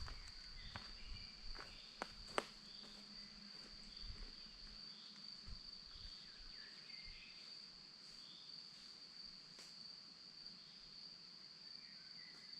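Crickets chirring in one steady high tone, faint, with a bird's short calls repeating about every half second and a few soft chirps. In the first couple of seconds a few sharp clicks sound, the loudest about two and a half seconds in.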